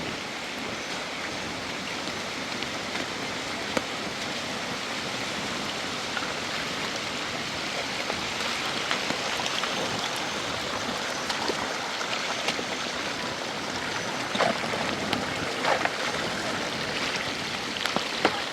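Steady hiss of heavy rain and running water, with scattered sharper drips and splashes, more of them near the end.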